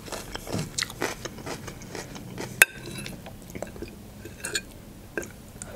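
Close-miked chewing of fried chicken hearts, with small wet mouth clicks. There is a sharp metal clink about two and a half seconds in, and a fork taps against the plate later on.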